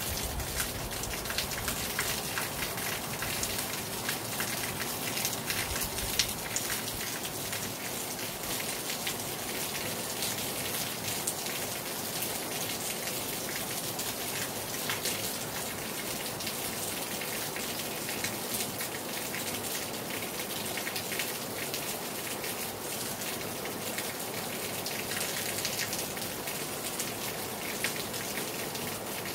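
Heavy rain falling hard on a terrace: a steady hiss with many sharp individual drop hits.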